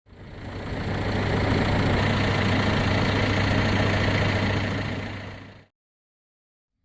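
An engine running steadily with a low hum, fading in over about a second and cutting off near the end.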